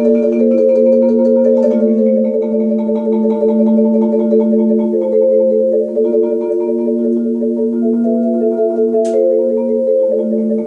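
Marimba played with four mallets, rolled chords held and changing every second or two in a steady flow. A single sharp click sounds about nine seconds in.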